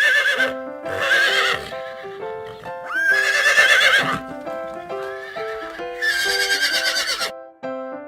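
Horse neighing: a whinny fading out at the start, then three more whinnies with a shaking, wavering pitch, about a second each. Light keyboard music plays under them throughout.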